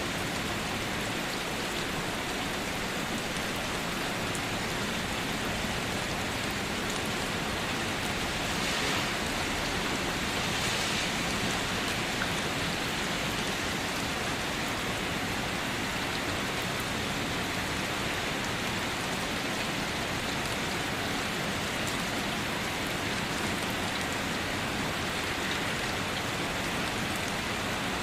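Steady rainfall, an even hiss of many drops on surfaces with no thunder, swelling slightly a few times around 9 to 11 seconds in.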